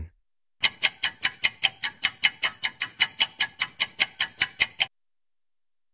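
Countdown timer sound effect: a clock ticking fast and evenly, about five ticks a second, starting just under a second in and stopping abruptly about a second before the end.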